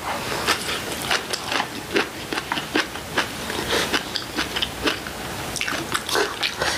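Close-miked chewing of green onion kimchi: a steady run of short, irregular wet crunches and mouth clicks.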